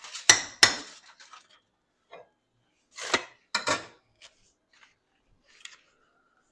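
Kitchen utensils and cookware clattering: a few sharp clinks and knocks, loudest as two pairs near the start and about three seconds in, with fainter taps between.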